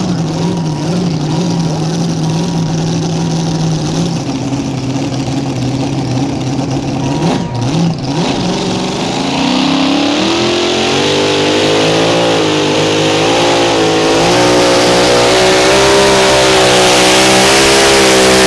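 Mini Rod pulling tractor's engine, first running at a steady note, then from about halfway climbing in pitch and getting louder as it goes to full throttle, the pitch wavering up and down under load while it pulls the sled.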